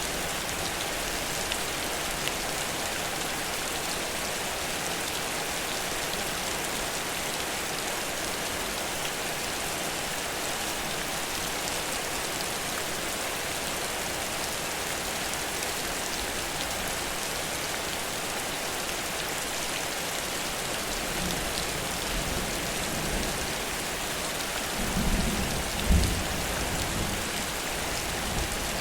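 Heavy rain pouring steadily. Near the end a low rumble of thunder swells, with one sharper crack in it.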